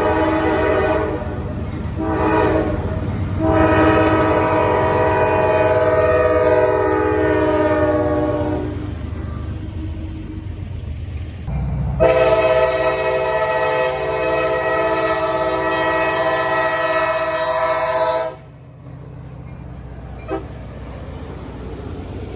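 Diesel locomotive's multi-chime air horn sounding for a grade crossing: a short blast followed by two long blasts of about five and six seconds, over the low rumble of the approaching train. The first long blast sags slightly in pitch, and the last one cuts off sharply.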